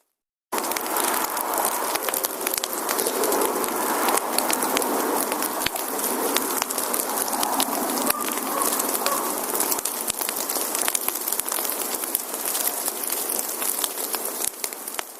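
Firewood fire burning: a dense, steady crackle of sharp pops and snaps over a soft hiss. It cuts in abruptly about half a second in and begins to fade near the end.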